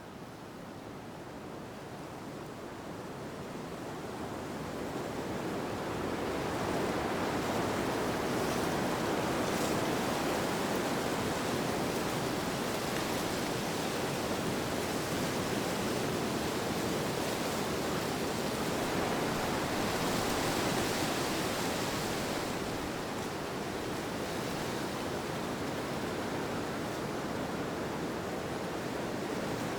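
Steady rushing wind noise, swelling gradually over the first several seconds and easing slightly about three-quarters of the way through.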